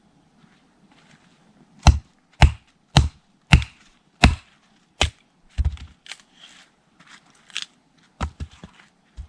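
A tool striking wood again and again: about seven sharp knocks spaced a little over half a second apart, starting about two seconds in, then lighter, irregular knocks.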